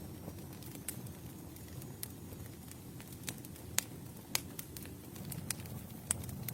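Wood campfire crackling: a steady low rumble of the burning fire with sharp, irregular pops, about one a second, a few of them louder.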